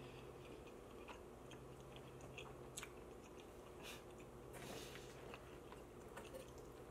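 Faint close-up chewing of a mouthful of pizza, with small wet mouth clicks scattered through it.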